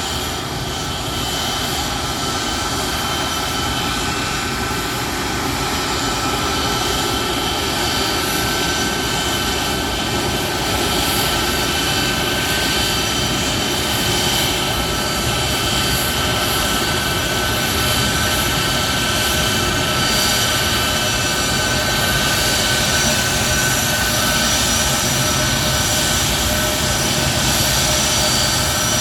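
Boeing C-17 Globemaster III's four turbofan engines running: a steady jet rush with several high whining tones, slowly growing louder.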